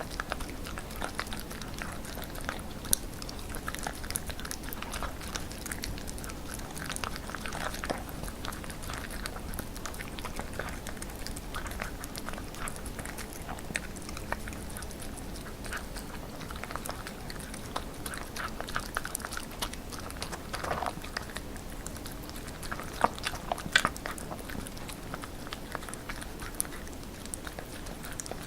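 A puppy chewing and biting chicken breast: wet, irregular smacks and soft crunches that keep going, with a few louder bites.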